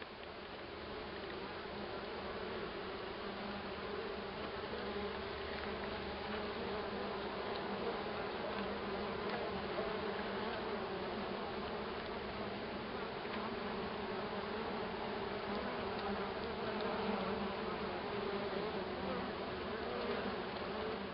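Honeybee colony buzzing: the dense, steady hum of many bees together, with a low drone under it, fading out near the end.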